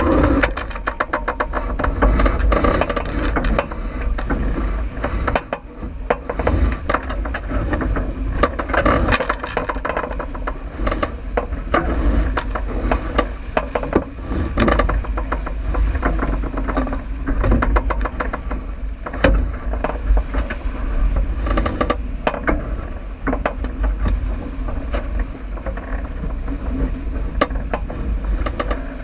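Wind and water noise aboard a J80 sailboat sailing downwind: a steady low rumble with frequent short knocks and rattles throughout.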